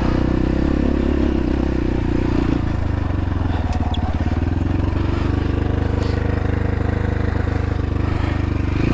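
X-Pro Templar X 250 dirt bike engine running steadily under load while riding slowly over rocks; the engine note eases off a little about two and a half seconds in.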